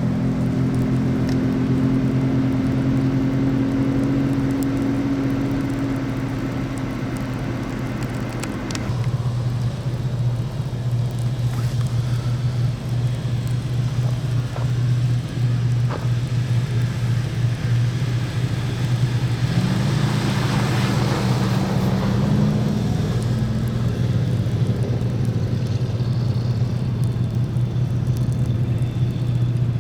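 Car engine hum and road noise while driving, steady, with a shift in the engine's tone about nine seconds in. A swell of hiss with a second engine tone comes about twenty seconds in.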